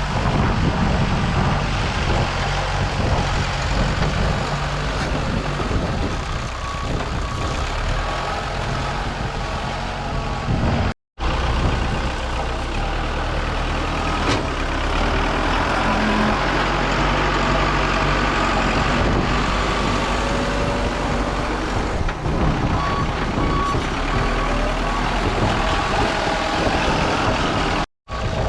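Diesel engine of earthmoving equipment running steadily as it moves dirt, with a reversing alarm beeping when it backs up, briefly early on and again steadily over the last few seconds.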